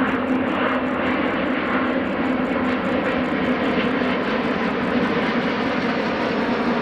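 Jet airliner engines running, a steady loud noise with a constant low droning tone running through it.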